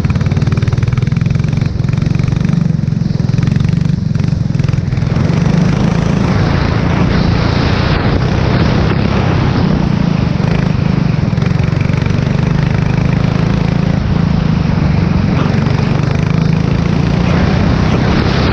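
Formula 4 race car engine heard onboard, running hard under a steady hiss. The sound eases off a couple of seconds in, then builds back up and holds.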